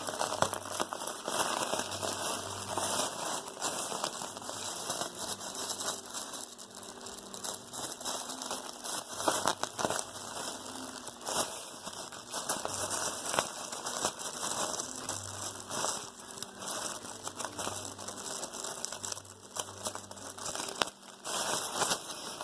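Thin plastic trash bag stuffed with cotton crinkling and crackling steadily as it is handled and squeezed.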